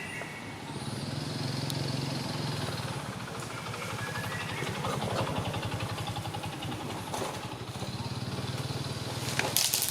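A vehicle engine running, its level swelling about a second in and again later on, with a cluster of sharp clicks near the end.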